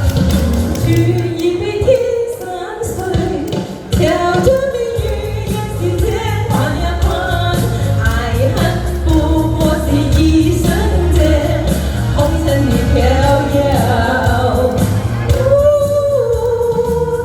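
Singing of a pop ballad over a backing track with a steady low bass pulse. The backing's low end drops out for a couple of seconds about two seconds in, then returns.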